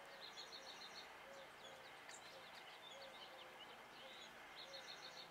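Faint songbird calls. A quick, high trill of about six notes comes near the start and again near the end, with scattered chirps between.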